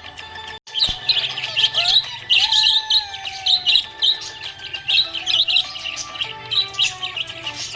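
Small pet parrots chirping rapidly and continuously over background music with a melody. There is a brief break in the sound about half a second in.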